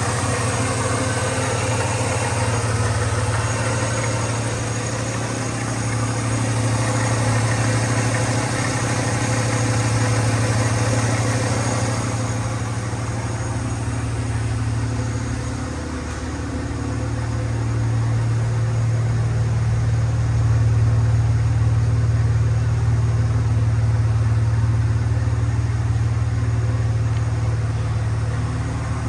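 1991 Ford F-150's 4.9-litre straight-six engine idling steadily.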